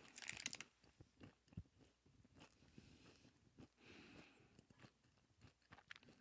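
Faint chewing and crunching of a hazelnut-and-nougat energy bar close to the microphone, with a short crinkle of its plastic wrapper in the first half-second.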